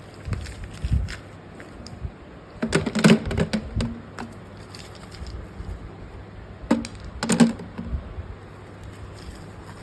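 Naphthalene balls and their packaging being handled: clusters of sharp clicks and rattles about three seconds in and again near seven seconds, with a few low thumps near the start.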